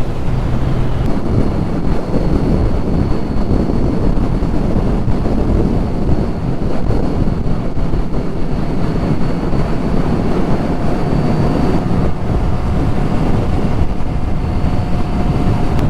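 Heavy wind noise buffeting a helmet-mounted microphone at riding speed, with the steady running of a Kawasaki Z1000SX's inline-four engine underneath.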